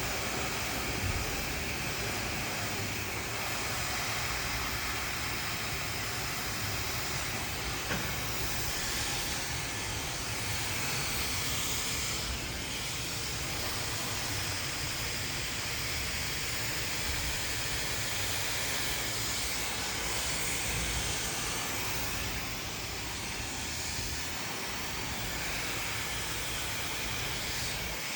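Hand-held hair dryer running steadily, its airflow briefly dipping in level a couple of times.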